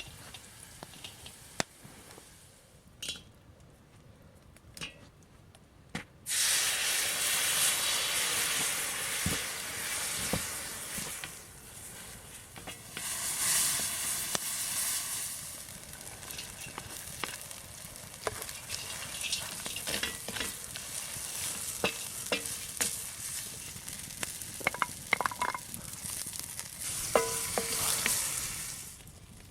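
Food frying in a hot pan. The sizzle starts suddenly about six seconds in, as if food has just gone into the pan, then carries on with the clicks and scrapes of a utensil stirring.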